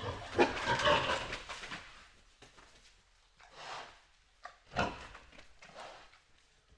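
Farm animal calling: one long, rough call at the start, then several shorter calls.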